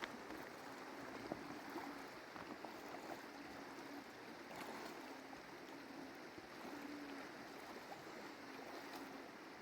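Steady rush of a flowing mountain stream, with a few faint clicks.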